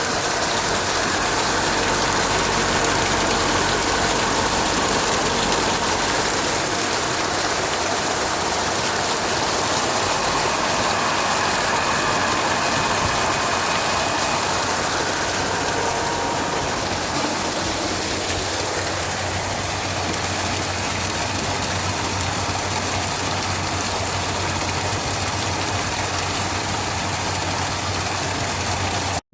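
A 3D-printed vortex-impeller water pump, driven by a 750 W, 3000 rpm electric motor, running steadily: a constant motor hum over a loud, even rushing noise of water being pumped.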